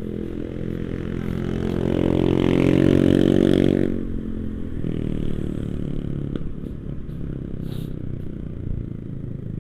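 Motorcycle engine running as it is ridden over a broken, muddy road. The engine grows louder for about two seconds and drops back about four seconds in.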